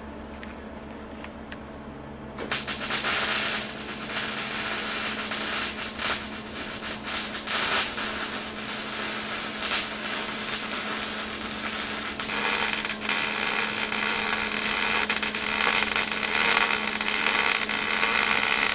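Gas-shielded MIG welder arc crackling and sizzling as it welds a homemade steel exhaust manifold. It starts about two and a half seconds in, after a low steady hum.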